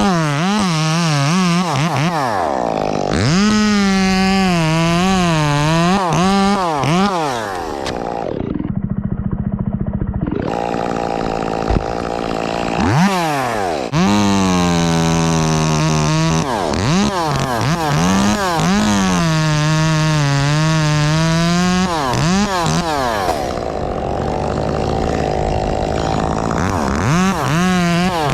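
Chainsaw running at high revs, its pitch wavering and dipping again and again as the chain loads up in the cut. It drops twice to a quieter, duller running, about a third of the way in and again near the end.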